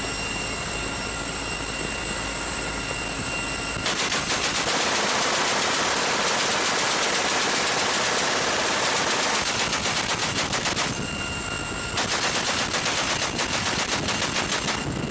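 Helicopter door-mounted .50-calibre Browning machine gun firing over the steady running of the helicopter: about four seconds in, a long burst of rapid fire lasting about seven seconds, a brief pause, then a second burst of about three seconds.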